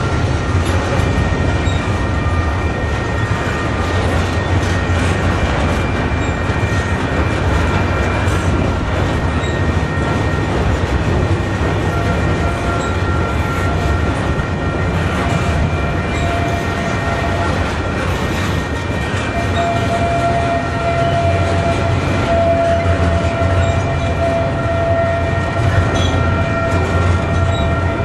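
Freight cars of a double-stack intermodal train rolling past at close range, a steady rumble of wheels on rail with thin, steady high-pitched tones over it that grow stronger in the second half.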